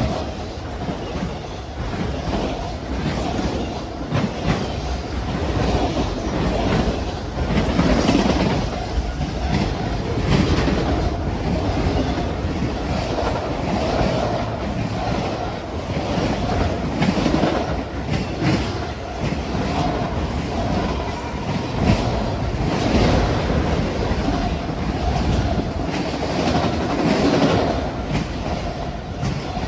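Freight train cars rolling past, their wheels clacking over the rail joints in a continuous series of clicks.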